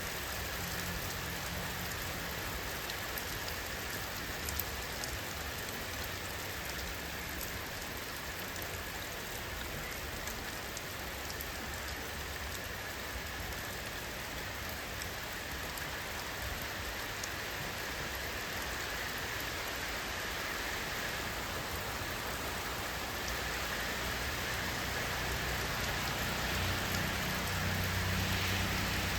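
Steady rainfall: an even hiss with a fine patter of many drops. A low rumble swells near the end.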